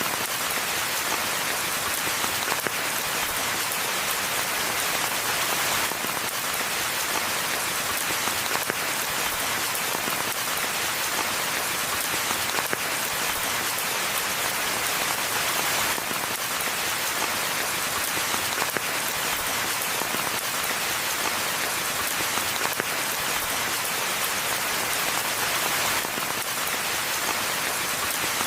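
Steady rain falling: a dense, even hiss speckled with countless small drop impacts, unchanging throughout.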